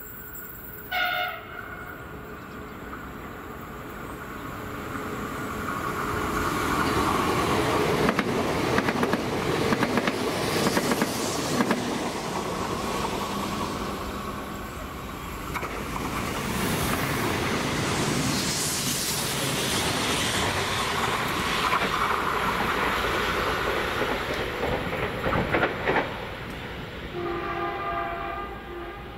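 Renfe train passing: a short horn blast about a second in, then the rush of wheels on rail building up, with sharp clicks over the rail joints. A longer horn blast sounds near the end.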